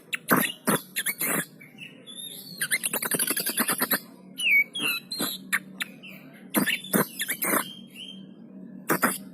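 Oriental magpie-robin (kacer poci) singing vigorously: sharp separate chirps, a fast rattling trill a few seconds in, and short whistled notes, over a low steady hum.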